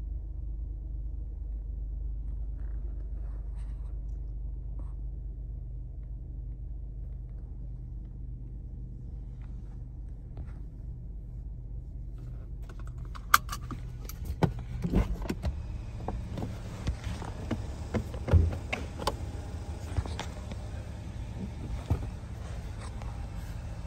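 Low steady hum of the Ford Focus's 1.0 L three-cylinder turbo engine idling, heard inside the cabin. From a little past halfway on, scattered sharp clicks, knocks and rattles break in, like things being handled in the car.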